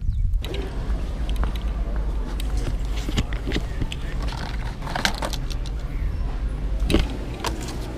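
Steady low road rumble inside a moving car, with scattered light clicks and rattles.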